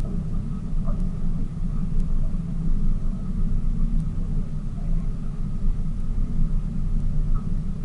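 Tour boat's engine running steadily under way, a continuous low rumble heard from on board.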